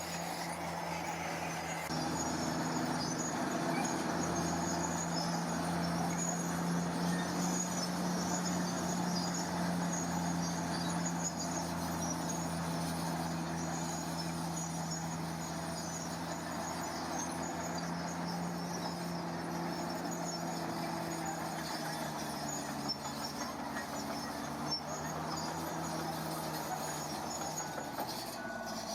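Heavy diesel earth-moving machine engine running steadily, its note rising in level about two seconds in and shifting slightly in pitch later.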